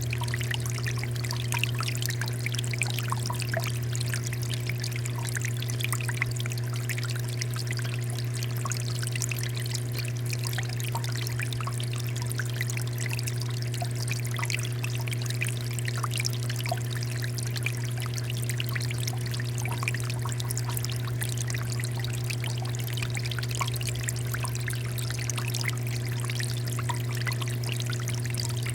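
Water fountain flowing steadily, its water falling and splashing in a constant patter, with a steady low hum underneath.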